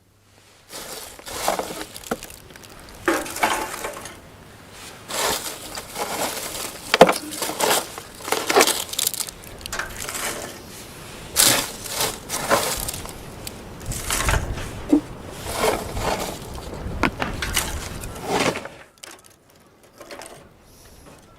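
Irregular crunching, cracking and clattering of things being broken and handled, one burst every second or two, stopping a couple of seconds before the end.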